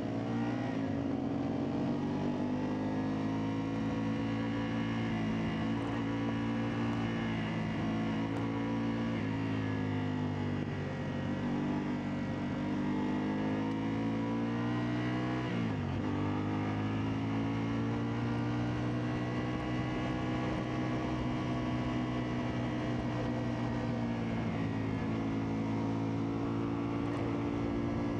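CFMoto 450MT's parallel-twin engine running under way, its note rising and falling with the throttle. About halfway through the pitch drops sharply and then picks up again.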